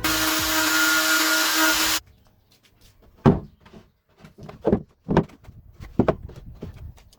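A power tool runs steadily for about two seconds, then cuts off suddenly. A few short, sharp knocks follow.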